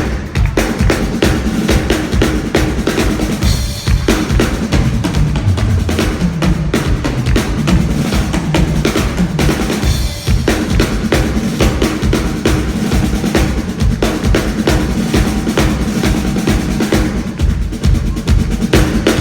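Live drum kit solo, improvised: rapid, unbroken strokes and rolls across bass drum and snare with rimshots.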